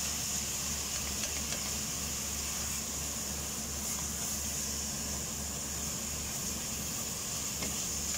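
Diced chicken frying with onion and garlic in a little olive oil in a stainless steel pot: a steady sizzle while it is stirred with a silicone spatula, over a steady low hum.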